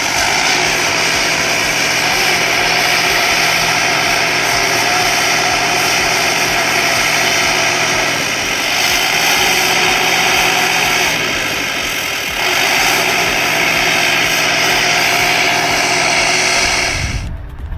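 Belarus 82 tractor's diesel engine running hard under load while it struggles through deep snow. The engine note shifts a couple of times, and the sound cuts off abruptly near the end.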